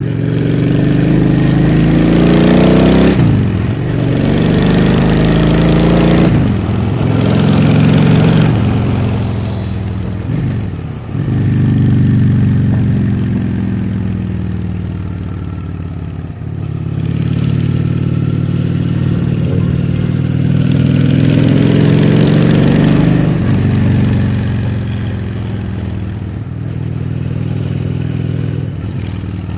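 Honda Shadow 600 V-twin motorcycle engine running and being revved, its pitch climbing and then dropping sharply about half a dozen times, with steadier, lower running between, settling lower near the end.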